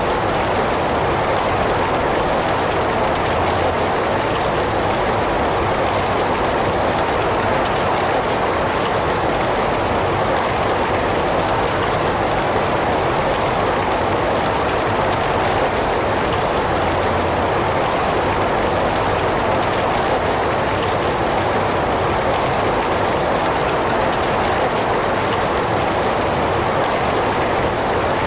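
Heavy rain falling steadily, an even, unbroken hiss of many drops with no thunder or other events.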